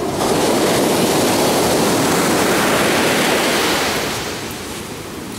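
Ocean surf rushing in, a steady heavy wash of breaking water that dies down over the last second or so.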